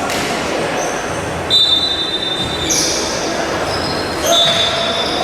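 Steady din of a crowd in a large hall, with several held high-pitched squeals or whistle-like tones. The loudest come about a second and a half in and again after four seconds.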